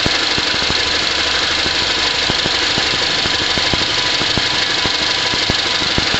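Car engine idling steadily, heard close up under the open hood, with an even run of light ticks several times a second.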